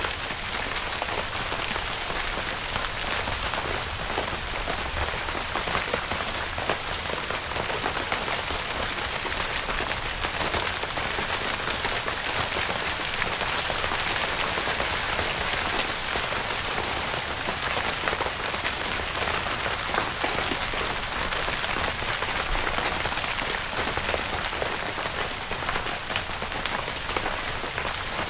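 Steady rain falling on a tent's fabric: a dense, even hiss made of many small drop taps, without let-up.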